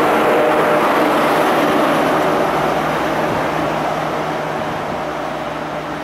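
Great Western Railway HST, Class 43 diesel power car and Mk3 coaches, running past close by. The last coaches and the rear power car's diesel engine go by with a steady low hum and wheel noise, which fades slowly as the train pulls away.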